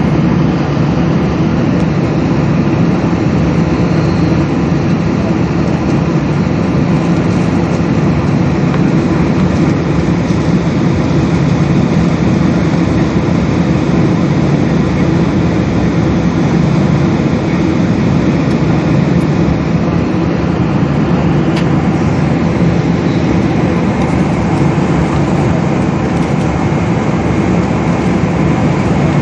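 Steady jet engine and airflow noise inside a Boeing 777's passenger cabin: a loud, even rumble with a faint low hum.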